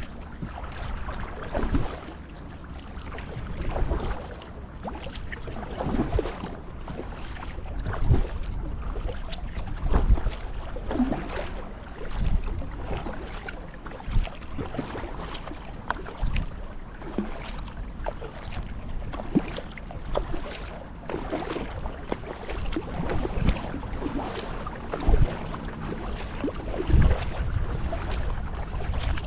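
Kayak paddle dipping and splashing in the water in a steady stroke rhythm, about one stroke every one to two seconds, with wind rumbling on the microphone.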